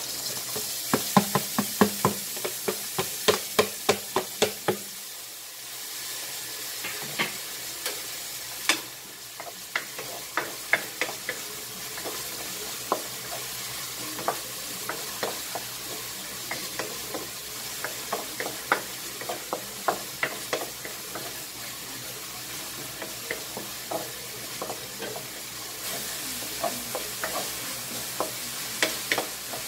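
Chopped onion and garlic sizzling in hot oil in a nonstick wok, with a steady hiss and short clicks and scrapes from a wooden spatula stirring against the pan. The clicks come thick in the first few seconds, then more scattered.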